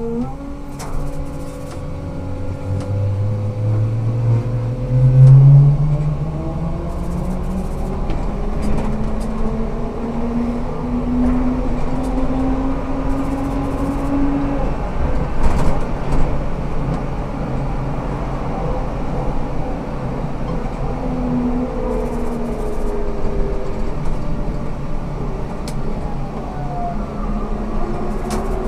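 Ikarus 280T GVM articulated trolleybus in motion: the electric traction drive whines, rising steadily in pitch as the bus accelerates through the first dozen seconds, over a constant road rumble and body rattles. A shorter, fainter whine comes again later on.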